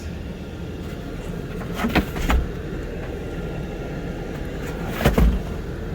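A steady low mechanical hum, with two short bursts of thumps and knocks, about three seconds apart.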